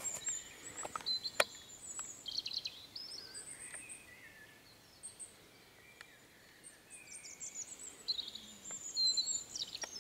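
Small songbirds singing: high chirps and short trills, sparse around the middle and busier again near the end, with a couple of sharp ticks in the first second and a half.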